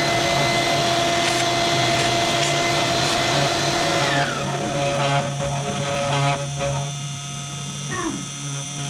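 Budget desktop CNC router carving wood: a motor whine rises, holds steady, and drops away about four seconds in as the machine changes its move. A shorter falling whine comes near the end, over a steady low hum.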